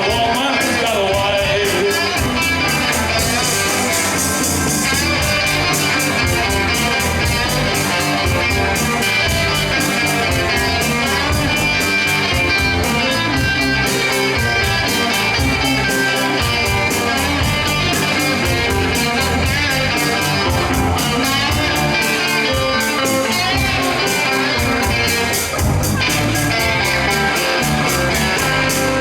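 Live blues band playing an instrumental passage led by guitar over a steady, quick beat.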